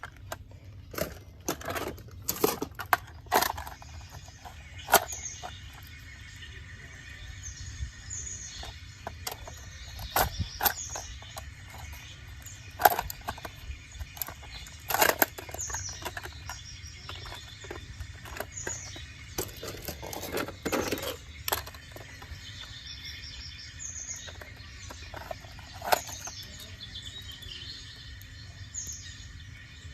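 Irregular sharp clicks and knocks, the loudest a little under halfway through and about two-thirds in, with small birds chirping throughout in short falling calls.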